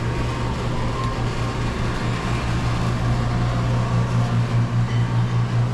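A steady low machine hum, which from about four seconds in takes on a pulsing rhythm of about three beats a second.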